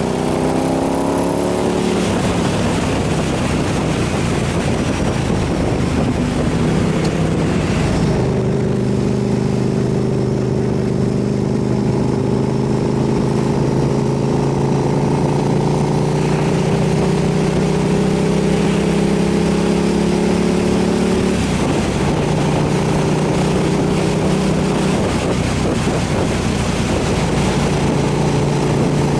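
KTM 990 SMR supermoto's V-twin engine running under way, its note rising in the first couple of seconds and stepping in pitch about 8 seconds in and again about 21 seconds in as it changes speed or gear, with steady wind rush over it.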